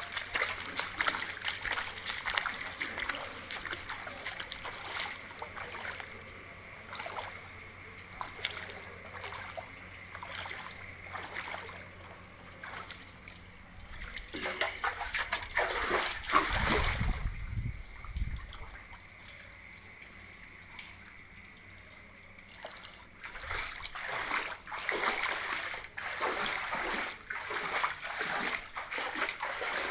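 Heavy rain falling with water splashing and running. About halfway through, a louder rush of splashing comes with a low rumble.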